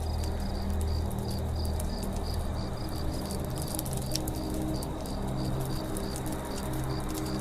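Campfire crackling, with frequent sharp pops and snaps, over a rapid high insect chirping about five times a second and a low steady hum.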